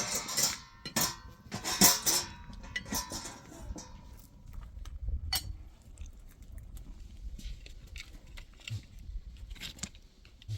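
Clinking and clattering of metal dishes or utensils being handled, busiest in the first three seconds, then a few scattered light knocks.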